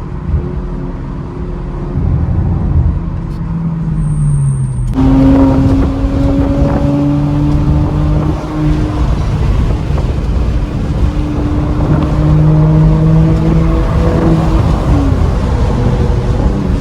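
Porsche's exhaust, muffler deleted, as the car is driven under acceleration: the engine note climbs steadily in pitch, becomes louder and brighter about five seconds in, dips once around the middle and climbs again before falling off near the end.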